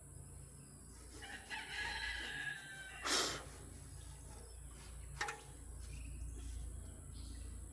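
A rooster crowing once, a call of about a second and a half, followed by a loud sharp knock about three seconds in and a smaller click a couple of seconds later.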